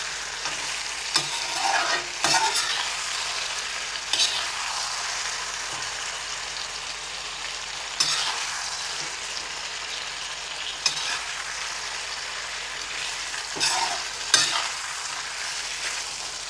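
Chicken, tomatoes and masala sizzling steadily in a hot iron kadhai while being stirred with a perforated metal ladle. The ladle scrapes and knocks against the pan every few seconds.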